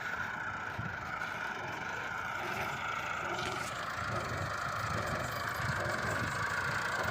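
Farm machinery engine running steadily with a constant whine, slowly growing louder.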